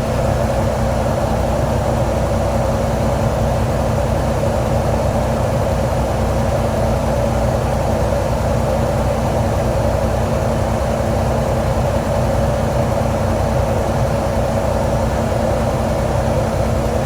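Detroit DD15 inline-six diesel of a Freightliner Cascadia running steadily at the raised idle of a parked forced DPF regeneration, near the end of the regen cycle.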